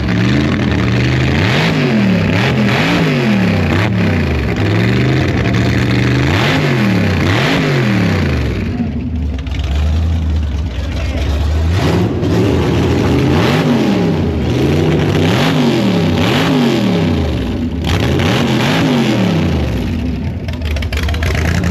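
A car engine revved repeatedly, its pitch climbing and falling about once a second, in two runs of revving with a brief lull near the middle.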